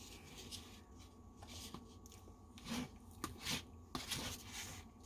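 A utensil scraping and clicking against a pie dish while a serving of soft pie is scooped out: several short scrapes with a few sharp clicks, faint.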